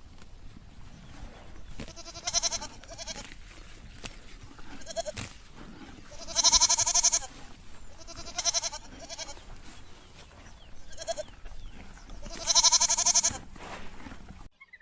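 Livestock bleating: about seven quavering calls, the two longest and loudest about six and a half and twelve and a half seconds in.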